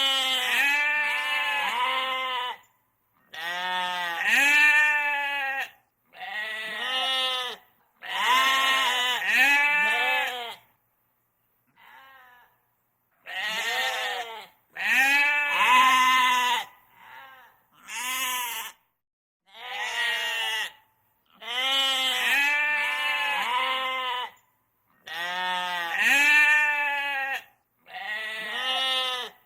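Bleating goat or sheep calls: about a dozen bouts of short, quavering, rising-and-falling bleats, each bout cut off abruptly by a silent gap, one or two of them faint.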